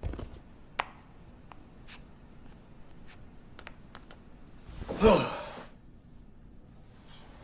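A person's breathy sigh, its pitch falling, about five seconds in, after a few small clicks and taps.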